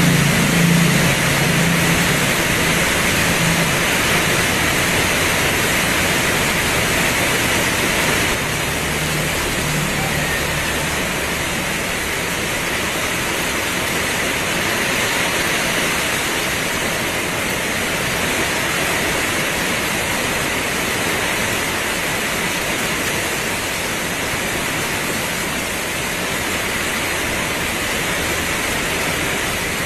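Heavy rain pouring in a steady, dense hiss, with a low hum underneath during the first ten seconds or so that then fades.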